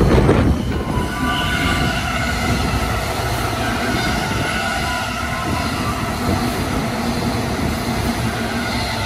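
The last of a freight train's tank wagons rumbling past, then, from about a second in, a JR Keiyo Line E233-series electric commuter train moving along the platform with steady rolling rumble and a steady whine of several tones.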